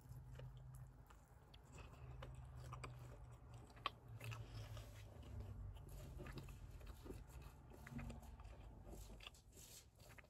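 Faint chewing and small crunching mouth sounds of someone eating sauced fried chicken wings, with scattered small clicks and a brief tick about four seconds in, over a low steady hum.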